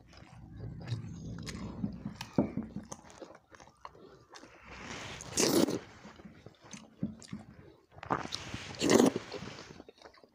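Close-miked chewing and wet mouth sounds of a person eating chicken curry and fermented water rice with a full mouth. There are many small clicks, and two louder, longer wet sounds come about halfway through and near the end.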